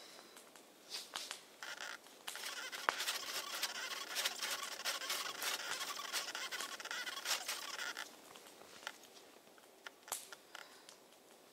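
Rustling and scratching with many irregular small clicks, busiest from about two seconds in until about eight seconds in, then dying down to a few scattered clicks.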